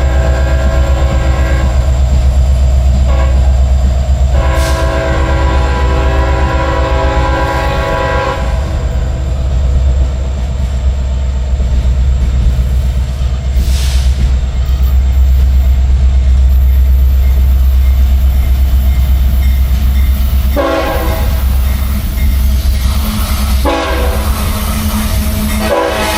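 Freight train's diesel locomotives passing with a steady deep engine rumble, the air horn sounding in blasts. One blast ends about two seconds in and a long one comes about five seconds in. Shorter blasts sound near the end.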